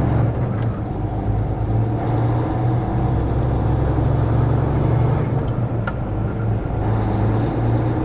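Semi truck's diesel engine running steadily, a low drone heard from inside the cab, with a single sharp click about six seconds in.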